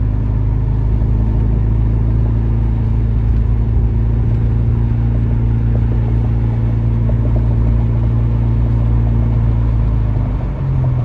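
Car's engine and road noise heard from inside the cabin while driving: a steady low drone with a constant hum. The drone changes and eases slightly about ten seconds in.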